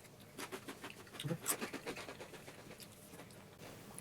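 Quiet crunching of Takis rolled tortilla chips being chewed: a run of small crisp crackles over the first couple of seconds, then fainter.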